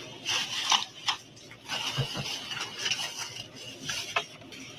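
Food and its packaging being handled at a table: a run of irregular light clicks and clatter with soft rustling.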